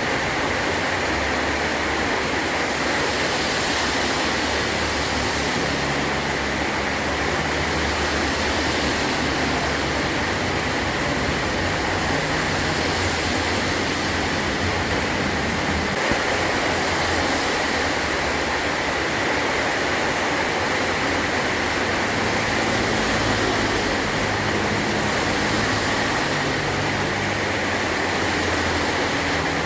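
Heavy rain falling steadily on a metal roof, a dense, even hiss with no let-up.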